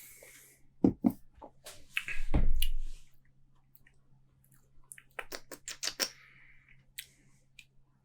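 Mouth sounds of someone tasting beer: a few small clicks, a loud sip about two seconds in, then a quick run of lip and tongue smacks about five seconds in.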